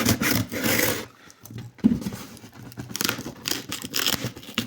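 Cardboard shipping box being cut and torn open by hand, with scraping and crinkling of the packaging, and a sharp click a little before two seconds in.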